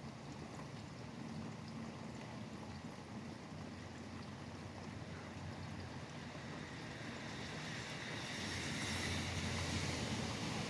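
Steady rain beside a highway with a constant traffic hiss; a passing vehicle grows louder over the last few seconds.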